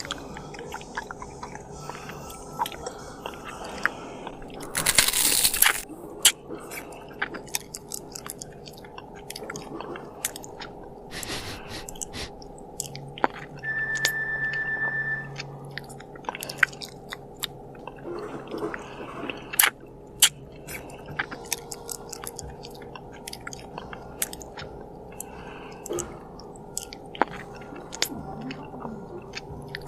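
Close-miked eating: chewing and biting with crisp crunches and small wet mouth clicks throughout. A loud rustling crunch comes about five seconds in, and a short steady tone sounds briefly near the middle.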